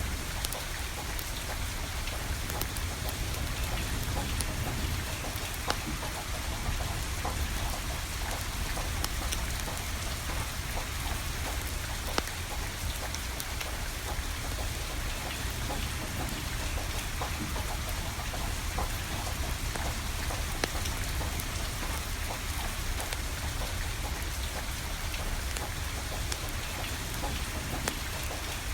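Steady rain falling, with a wood fire crackling: scattered sharp pops over an even hiss, and a low rumble underneath.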